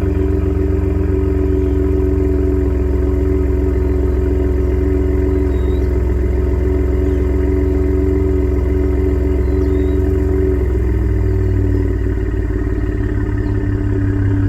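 Ford F-150's 3.5 L EcoBoost twin-turbo V6 running at idle after a cold start, heard through an exhaust with the resonator deleted and the stock muffler kept. The steady engine note changes about eleven seconds in.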